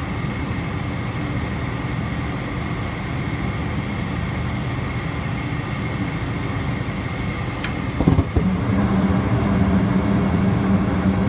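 Goodman gas furnace running its inducer motor with a steady hum. About eight seconds in there is a click, then the burners light with a sudden rush and the furnace runs louder, in a cycle that shows how the flames light and then drop out when the flame sensor fails to prove flame.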